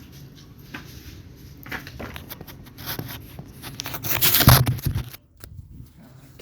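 Irregular rustling and scuffling as a wild black-naped oriole is handled and flutters, with a louder flurry about four and a half seconds in.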